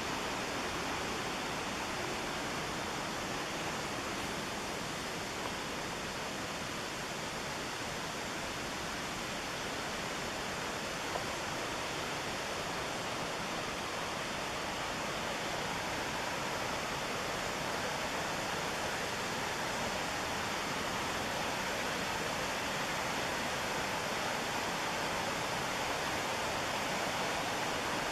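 Steady rushing of the McKenzie River's whitewater, an even roar without a break.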